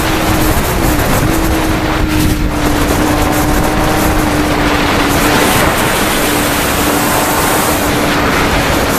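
Wind rushing loudly over the microphone of a Kawasaki Ninja motorcycle at speed, with the engine running steadily underneath; its pitch dips briefly about a second in, then holds.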